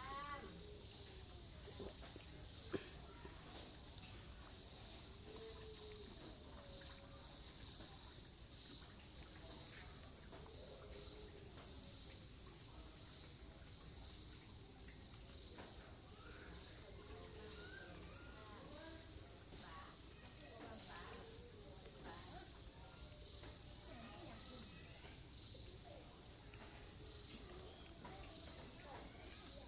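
Steady, high-pitched insect chorus trilling continuously, with faint scattered short calls underneath and a single sharp click about three seconds in.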